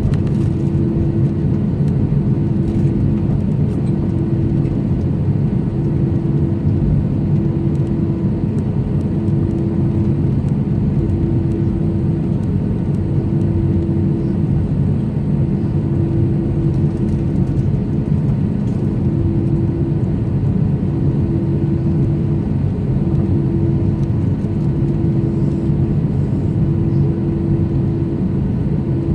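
Steady low mechanical rumble, with a tone that pulses on and off about every two seconds.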